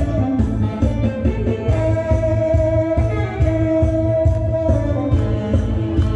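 Tenor saxophone playing a trot melody in long held notes over a backing track with a steady drum beat.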